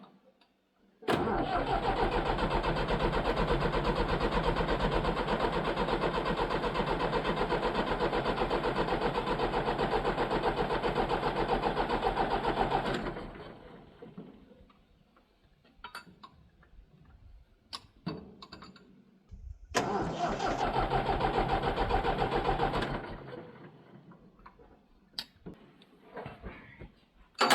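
Leyland diesel tractor engine cranking on its starter motor without firing, a long crank of about twelve seconds and then a shorter one that dies away, with a few knocks in between. It will not catch because there is no fuel at the injectors.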